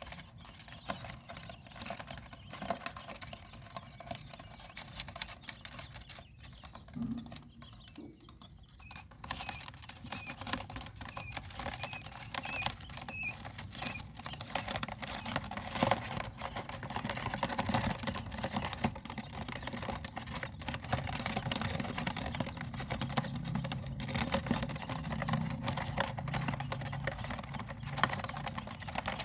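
Quail pecking rapidly at pellet feed, a dense run of small clicks like typing. About a third of the way in there is a short string of faint high peeps.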